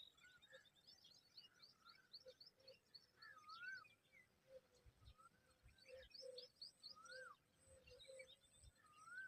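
Faint birdsong: short rising-and-falling whistled phrases repeated every second or two, over a stream of rapid high chirps.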